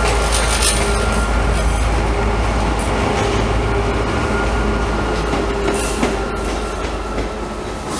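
A train moving through the station: a steady low rumble of running gear on the rails, with brief high-pitched wheel squeals a little after the start and near the end.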